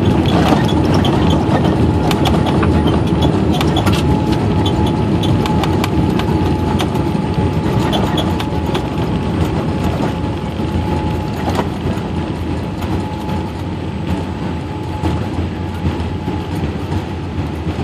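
Cabin noise inside a Boeing 787-8 rolling on the ground after landing: a steady rumble from the engines and wheels, with rattling of cabin fittings and a faint steady tone. It gradually gets quieter.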